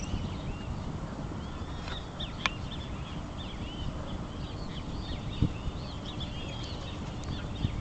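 Many birds chirping in short rising-and-falling calls, over a steady low rumble with a couple of dull thumps.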